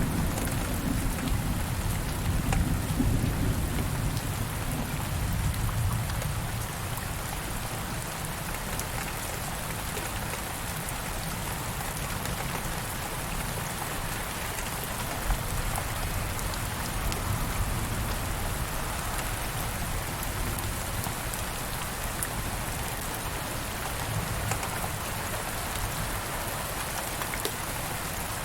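Steady rain falling, with a low thunder rumble in the first several seconds that dies away about six seconds in.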